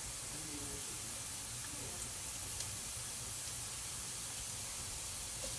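Minced garlic and julienned ginger sizzling in hot oil in a pot: a steady frying hiss, with two faint taps a little past the middle.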